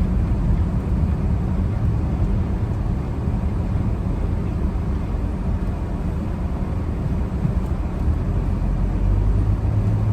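Car's engine and road noise heard from inside the cabin while driving, a steady low rumble; a low hum grows louder near the end as the car picks up speed.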